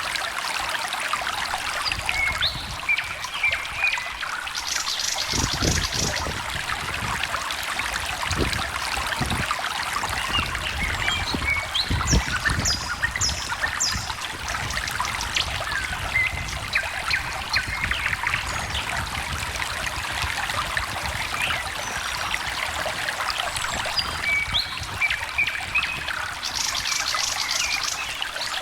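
Stream trickling and gurgling steadily, with short bird calls and high chirps now and then.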